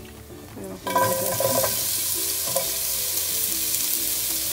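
Chopped onion hitting hot oil in a frying pan: a sizzle that starts suddenly about a second in and carries on steadily as the onion fries.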